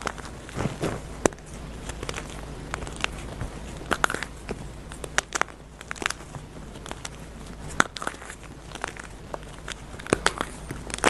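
Dyed gym chalk crunching and crumbling, with irregular sharp crackles coming several times a second.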